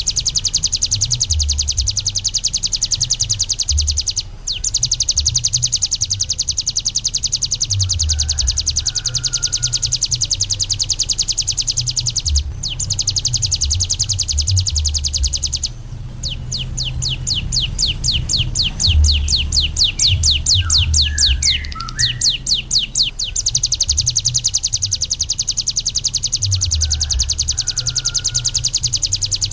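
Ciblek gunung (a prinia) singing a very fast, high, continuous trill, broken only briefly a few times. Near the middle it changes for several seconds to a slower run of separate, distinct notes before the fast trill resumes.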